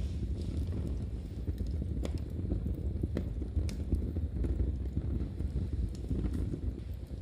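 Wood fire in a fireplace burning with a steady low rumble and sparse, irregular sharp crackles.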